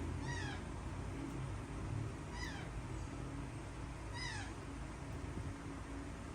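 Baby birds calling: three short cheeps falling in pitch, about two seconds apart, with a fainter one near the end, over a steady low hum.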